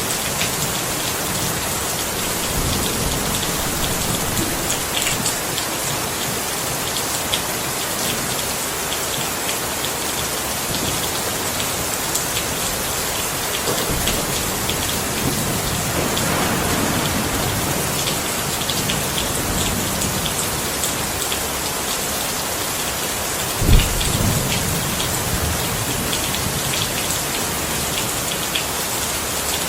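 Steady rain pattering on a surface, with slow low rumbles of thunder rising and fading, and one sudden loud low thump about three-quarters of the way through.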